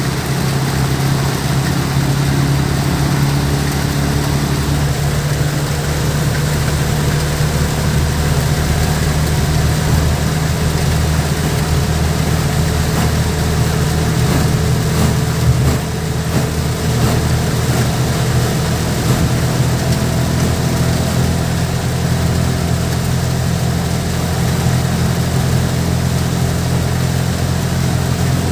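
Heavy rain falling and splashing, a steady hiss, over a louder steady low machine hum that holds unchanged throughout.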